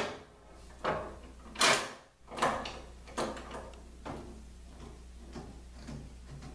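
Clamps and a wooden extension table being handled against a table saw: a few sharp knocks and clunks in the first three seconds, the loudest about two seconds in, then lighter clicks.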